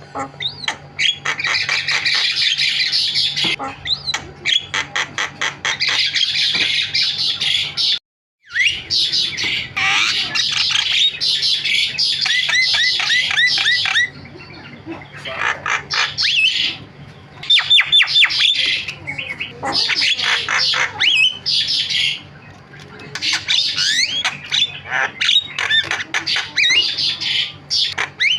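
Javan myna chattering loudly and almost without pause: harsh squawks, rapid rattling runs of repeated notes and gliding whistles. The song breaks off abruptly for a moment about eight seconds in, then resumes.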